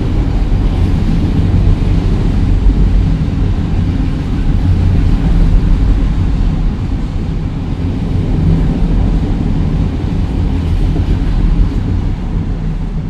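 Diesel train running close by with a loud, steady, deep engine rumble and rail noise.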